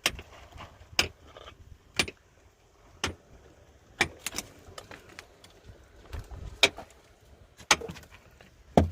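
Sharp strikes repeated about once a second, now and then in quick pairs, like a hand tool hitting something hard.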